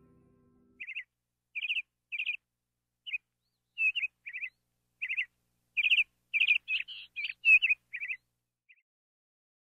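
A bird chirping: short high chirps, spaced out at first, then coming quicker and closer together from about six seconds in.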